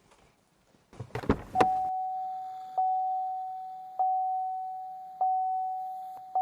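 A car door is opened with a few clicks and knocks, then the car's door-open warning chime dings about once a second, each ding fading before the next.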